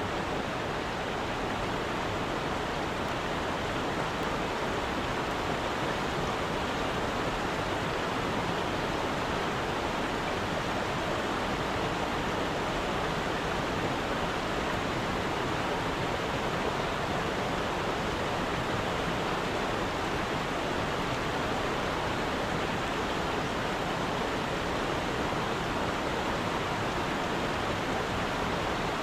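Steady rush of flowing stream water, an even noise with no breaks or separate events.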